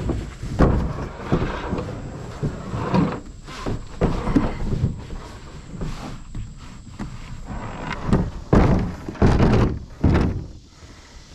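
A series of irregular thumps, knocks and scrapes, as of gear being moved and handled, loudest in a cluster near the end.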